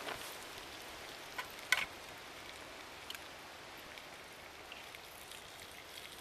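Wood cooking fire: a steady hiss broken by a few sharp crackles and pops, the loudest a little under two seconds in and another about three seconds in.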